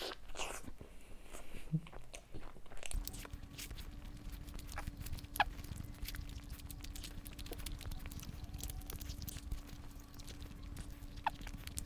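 Close-miked chewing of a bite of stuffed garlic bread: soft bites, small crunches and mouth clicks. A faint steady hum starts about three seconds in.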